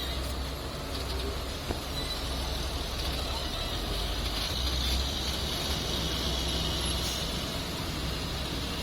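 Quarry dump truck's engine running steadily, a low even rumble.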